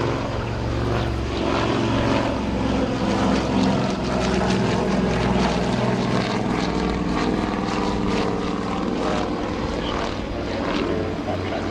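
Avro Anson C19's twin Armstrong Siddeley Cheetah radial piston engines and propellers running loud and steady during its departure, the engine note shifting about nine seconds in.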